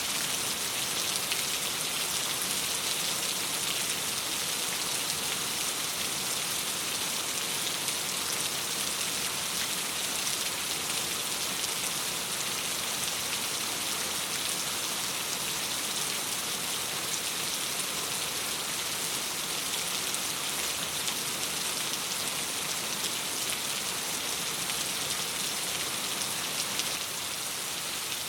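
Steady rain pattering on a window glass, a dense even hiss that eases off slightly near the end.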